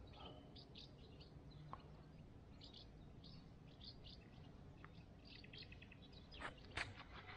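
Faint songbirds chirping in short high notes, with a quick trill of about ten notes a little past five seconds in. Two soft knocks sound near the end.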